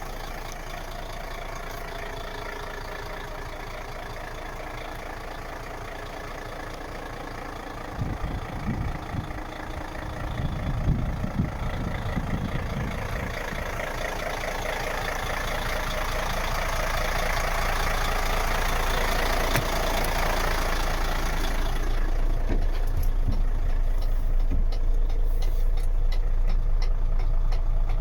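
Mercedes-Benz Actros 2536 truck's diesel engine running steadily. There is a spell of low thumping about eight to twelve seconds in, then the sound grows gradually louder and turns deeper and duller for the last several seconds.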